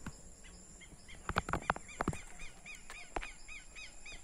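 A bird calling a rapid run of short, arched chirps, about four a second, through the second half. Before that come a few sharp crackles, the loudest sounds here.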